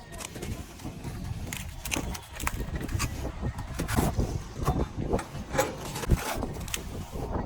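Irregular scraping and knocking of a plastering trowel working plaster on a wall, in uneven strokes.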